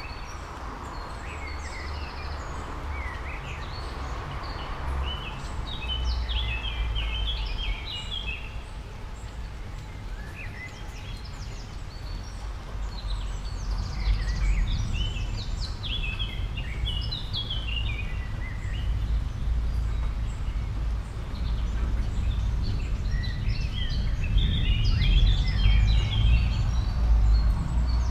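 Small birds chirping in bursts of quick high notes, over a low rumble that grows louder toward the end.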